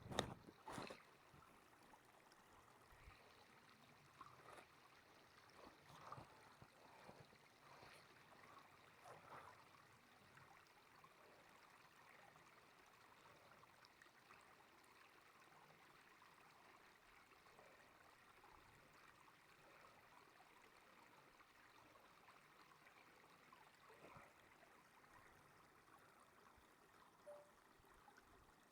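Near silence: a faint steady hiss, with a few soft short noises in the first ten seconds and one more later.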